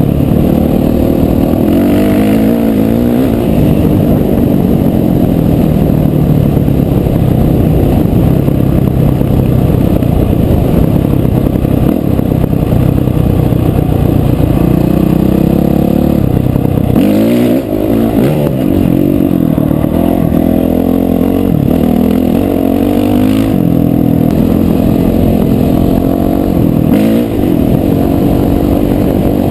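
Dirt bike engine running while riding, loud and continuous. Its pitch drops and climbs again several times in the second half as the rider works the throttle.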